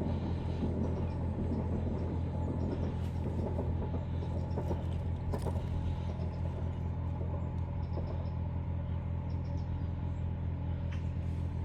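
A steady low rumble that holds at an even level throughout, with a few faint clicks.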